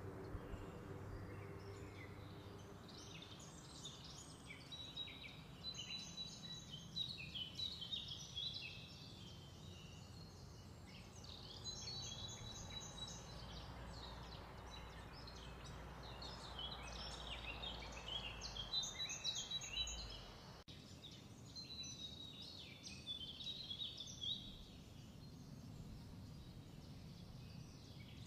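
Small birds chirping and twittering again and again, over faint steady background noise.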